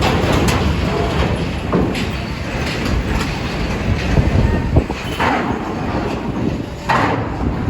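Heavy vehicles rolling over a ferry's steel loading ramp: a continuous low rumble with several loud metal clanks and knocks.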